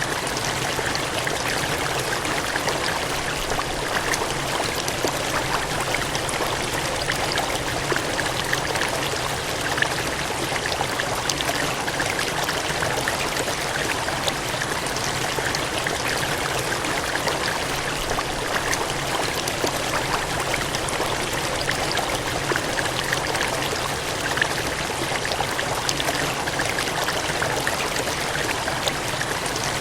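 Gushing, cascading water in a steady, even rush, full of fine splashing detail.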